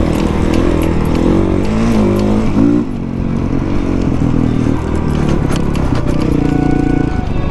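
Honda CRF450 dirt bike's single-cylinder four-stroke engine under way on a trail. Its pitch swings up and down with the throttle, then it eases off about three seconds in, with scattered clicks and rattles over the rough ground.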